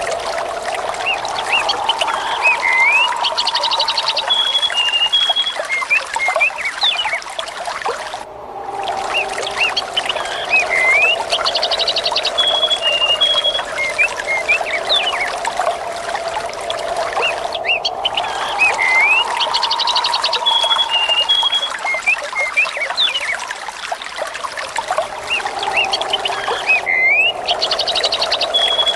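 Steady trickling, pouring water with small birds chirping and a quick high trill over it; the same short recording repeats as a loop about every nine seconds.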